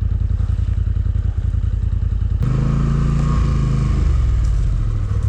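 ATV engine running at low revs with an even low pulse, then throttled up about two and a half seconds in, running harder with its pitch rising and falling as the machine works through deep snow.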